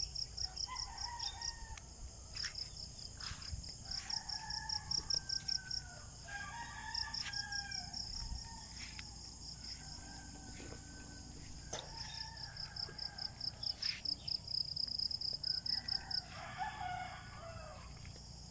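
Roosters crowing several times, with an insect's rapid pulsed trill coming in repeated runs of about two seconds.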